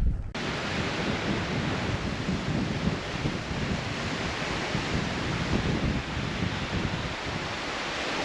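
Strong storm wind buffeting the microphone over the wash of surf, a steady rushing and rumbling noise that starts abruptly just after the start.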